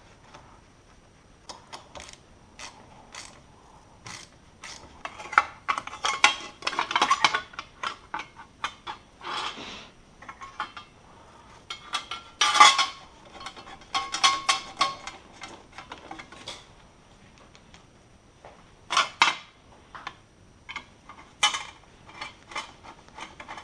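Hand tools and small bolts clinking against metal car suspension parts as the brake line bracket is fitted: scattered sharp clicks and metallic taps, with a few short runs of rapid clicking.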